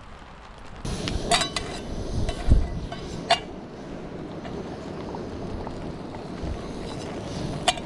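Wind rushing over the microphone, setting in about a second in, with a few sharp clinks of camp cookware and one dull knock.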